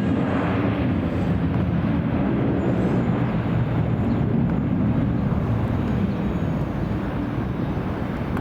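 Jet airliner's engines at takeoff power as the heavily loaded plane climbs out after a long takeoff roll: a steady low rumble that eases off slightly near the end.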